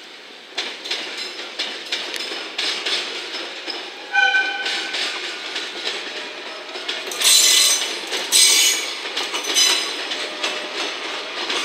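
Slow-moving freight train (an EF66 electric locomotive hauling a dead EF210 locomotive and empty Koki container flatcars): wheels clicking over rail joints and yard points. Bursts of high flange squeal are loudest around seven to nine seconds in, and a brief high tone comes about four seconds in.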